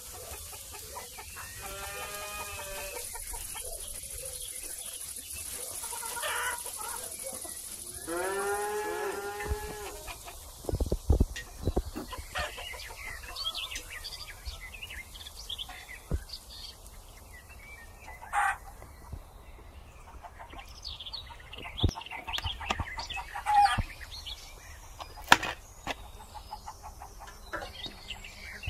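Farmyard poultry: a rooster crows twice in the first ten seconds, then hens cluck and small birds chirp, with a few sharp knocks.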